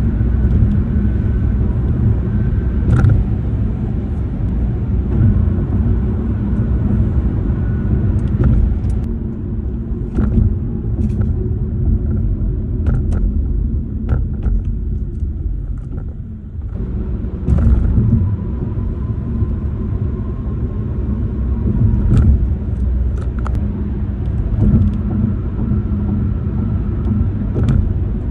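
Car tyres running over pavement and grooved concrete bridge decks, heard from inside the cabin as a steady low rumble with a faint steady whine at times. Scattered sharp clicks and rattles come from the car's interior plastics and phone mount, worn by freeze and thaw cycles.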